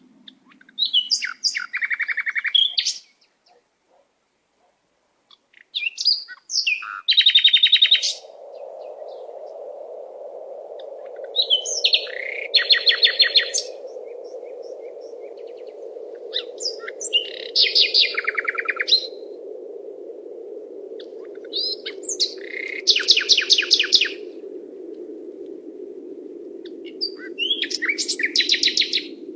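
A songbird singing short trilled phrases, one about every five seconds, each a quick run of rapid high notes dropping in pitch. From about a quarter of the way in, a steady low rushing noise runs underneath.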